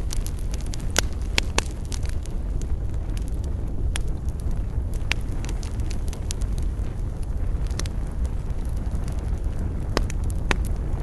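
Wood campfire crackling, with sharp pops at irregular intervals a second or more apart over a steady low rumble.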